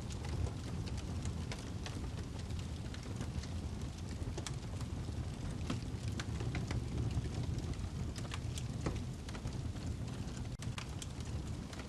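Wood fire burning in a fireplace: a steady low rumble of flames with irregular crackling and a few sharper pops from the burning log.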